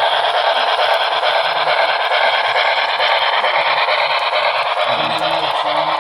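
Train passing: a steady, loud rushing noise.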